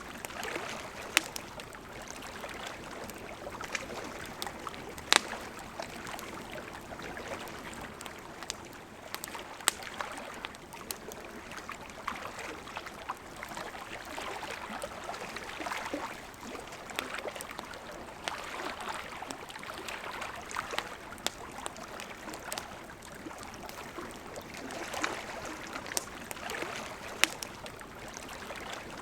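Wood campfire crackling, with sharp pops every few seconds, over the steady rushing of a river.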